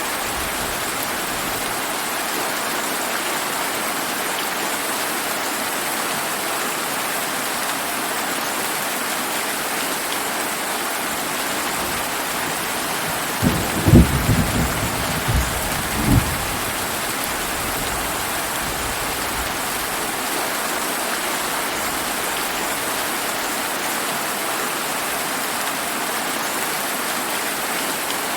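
Steady rain falling. About halfway through, a short burst of thunder breaks in: several low claps close together over about three seconds.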